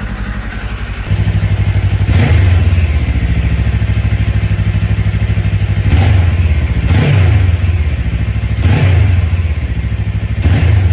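Kawasaki Ninja 500 parallel-twin engine idling as it warms up after a cold start, with about five short throttle blips. The idle gets louder about a second in.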